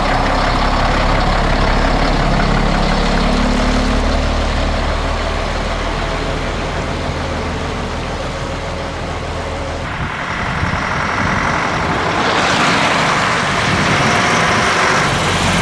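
Heavy Scania truck diesel engine running with a steady low drone. About ten seconds in the drone breaks up, and a broader, rougher engine and road noise builds soon after as the load changes.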